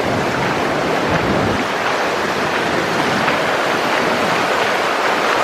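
Skookumchuck River floodwater rushing steadily across a street, a continuous loud wash of moving water, with a low rumble through the first second and a half.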